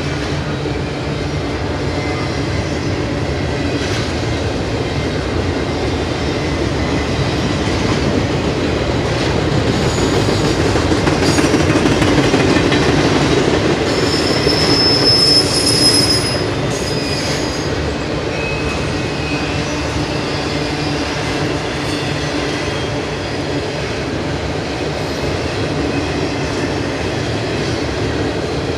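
Double-stack intermodal container cars rolling past: a steady rumble of steel wheels on rail, with a brief high wheel squeal about halfway through.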